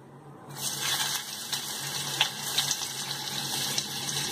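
Chopped onion sizzling in hot mustard oil in a steel kadai: a steady hiss that starts about half a second in, just after the onion goes into the oil.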